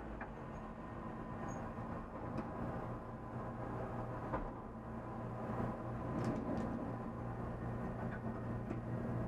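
Race car engine running at a fairly steady pitch, heard from inside the stripped, caged cockpit, with a few light clicks about six seconds in.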